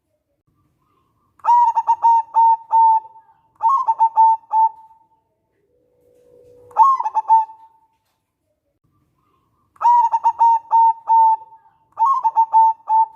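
Zebra dove (local perkutut) singing: five phrases of quick staccato cooing notes with short silences between, each about one to one and a half seconds long. The phrases come in a repeating pattern, and one is led in by a low held note.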